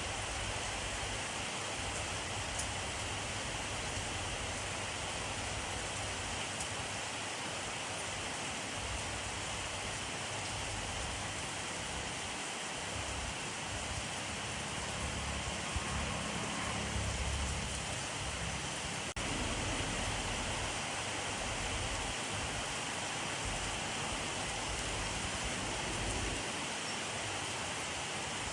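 Steady rainfall with an even hiss, and a low rumble swelling briefly around the middle.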